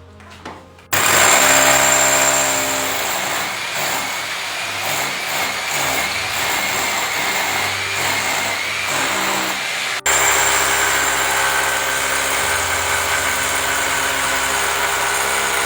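Electric power drill running steadily under load during an air-conditioner installation, stopping for an instant about ten seconds in and then running on.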